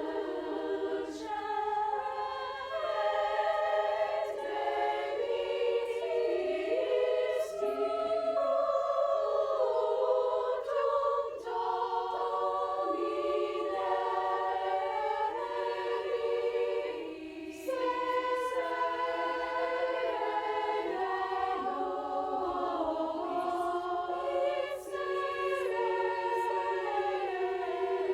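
High school choir singing in harmony, holding long chords, with a brief pause for breath about two-thirds of the way through.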